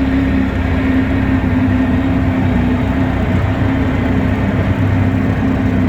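Twin two-stroke jet outboard motors on a jon boat running at a steady speed, an even drone that holds its pitch throughout.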